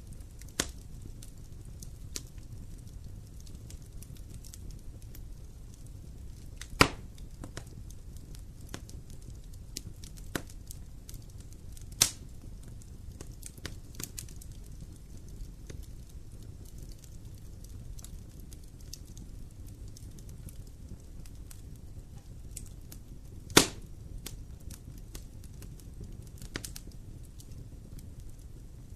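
Wood campfire burning with a low steady rumble and scattered crackles and pops, three sharp loud pops standing out, about 7, 12 and 23 seconds in.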